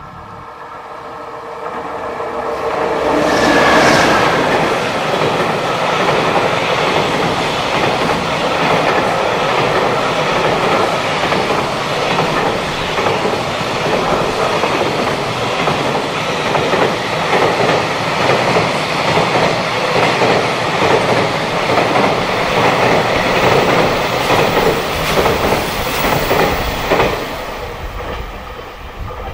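JR Freight EF210 electric locomotive approaching and passing about four seconds in, followed by a long line of container wagons rolling past with steady clickety-clack of wheels over rail joints, fading near the end.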